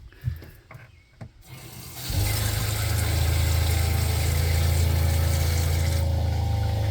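The camper van's water pump kicks on about two seconds in and runs with a steady low hum, while water runs from the tap with a hiss until about six seconds in. The pump keeps running after the water stops, building pressure before its pressure switch shuts it off.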